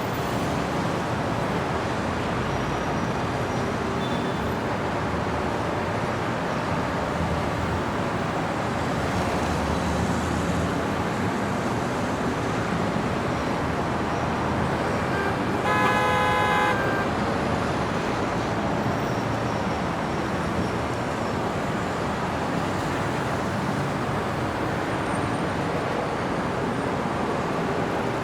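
Steady city street traffic noise, with a car horn sounding once for about a second around the middle.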